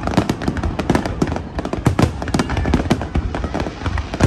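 Aerial fireworks bursting in a rapid, continuous barrage: many sharp bangs and crackles a second, with faint whistling shells near the end.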